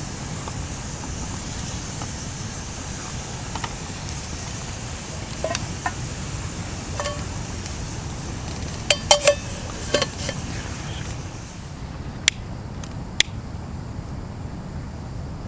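Metal camp cookware and utensils clinking a dozen or so times, with a quick run of three sharp clinks about nine seconds in, over a steady low outdoor rumble.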